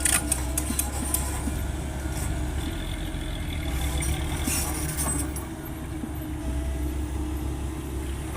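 Heavy diesel engine running steadily, with sharp clatters and rattles in the first second and again about four to five seconds in.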